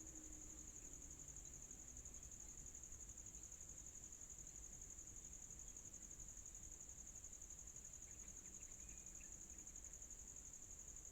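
Steady chorus of insects: a continuous high-pitched trill that holds unchanged throughout.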